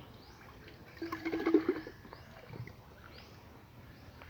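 An animal calling outdoors: a short rising chirp repeated evenly about twice a second. About a second in, a louder sound with a steady low tone lasts under a second.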